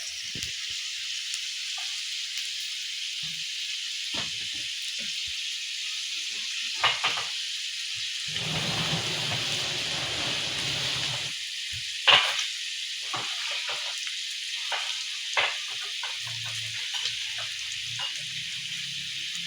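Food sizzling in a pan on the stove, a steady hiss, with a few sharp knocks and clicks of a cooking utensil against the pan, the loudest about twelve seconds in.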